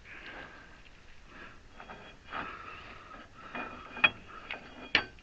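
Metal-on-metal scraping and clinking as a part is forced into a backhoe's hydraulic ram cylinder, with two sharp ringing clinks near the end, about a second apart.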